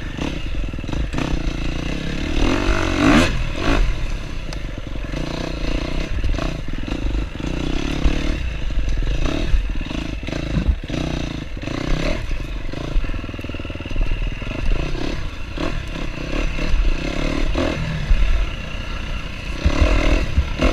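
KTM enduro dirt bike engine revving up and falling back in repeated bursts of throttle while climbing over rough trail, with clattering knocks from rocks and the bike's chassis.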